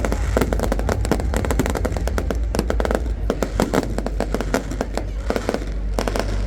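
Fireworks going off in a dense, rapid barrage of bangs and crackles, many per second, over a steady low rumble.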